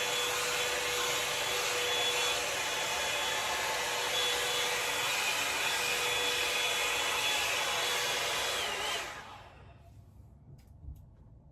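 Revlon One Step hair dryer brush running steadily, a rush of air with a faint whine, then switched off about nine seconds in, its motor winding down.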